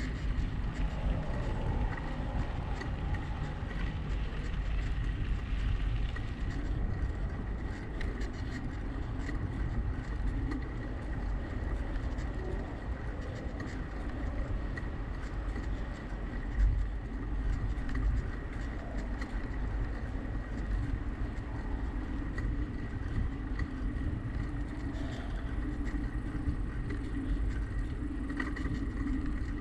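Steady low rumble of wind and road noise from a bicycle in motion, with a faint steady high whine and scattered light ticks.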